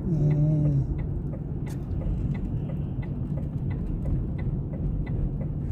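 A car's steady engine and road rumble heard from inside the cabin while driving on a wet road. A brief vocal sound comes in the first second.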